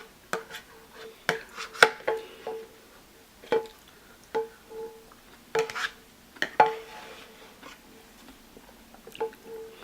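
Eating sounds from the last of a bowl of spicy noodles: irregular sharp clicks of a utensil on the bowl, several of them setting the bowl ringing briefly at the same pitch, with mouth noises between.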